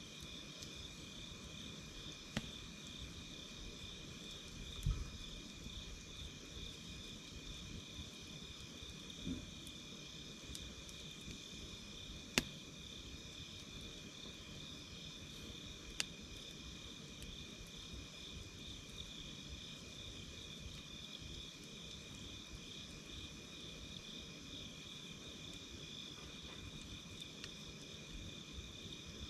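Night insects chirping steadily in a pulsing chorus on two pitches, over a wood campfire that gives about five sharp crackles and pops, the loudest a little before halfway.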